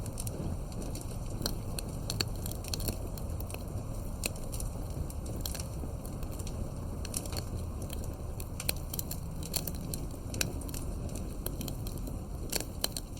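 Campfire burning, the wood crackling with frequent, irregular sharp snaps over a steady low background noise.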